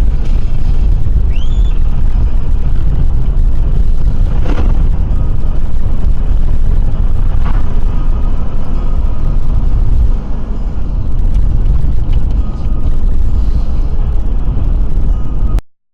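A vehicle driving, with a loud, steady low rumble of engine and road noise and two sharp knocks, the first about four and a half seconds in and the second about three seconds later. The sound cuts off suddenly just before the end.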